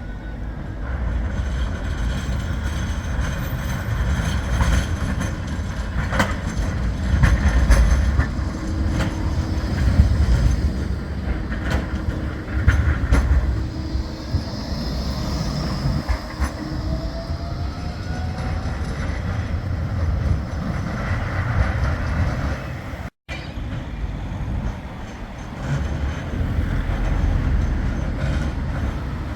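Bombardier Flexity 2 electric tram running on its rails: a steady low rumble with sharp clicks as the wheels pass over rail joints, and a rising whine about halfway through. The sound drops out for a moment a little before the end.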